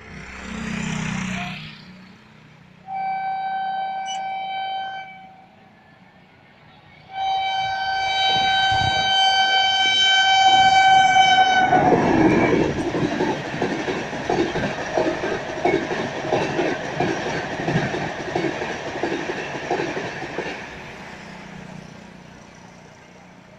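Indian Railways train sounding its horn twice, a short blast and then a longer one held about five seconds, before it passes below with loud rushing and fast clickety-clack of wheels over rail joints that fades away.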